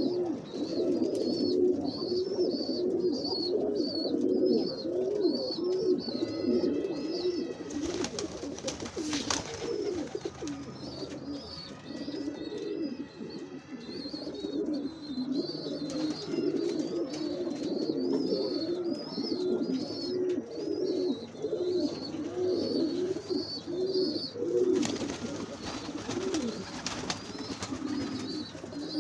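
Several pigeons cooing over one another without pause, with a higher, quickly repeated chirping from other small birds above them. A rustling noise comes twice, about eight seconds in and again near the end.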